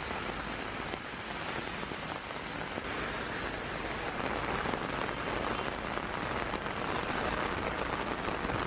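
Heavy rain falling steadily on wet pavement, a dense even hiss that grows a little louder after about four seconds.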